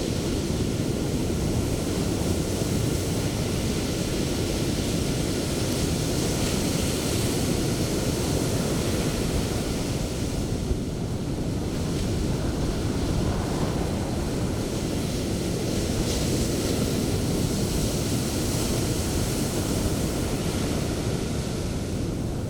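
Sea surf breaking and washing up a beach: a continuous rush of water whose foamy hiss swells and fades several times as waves come in, with wind buffeting the microphone.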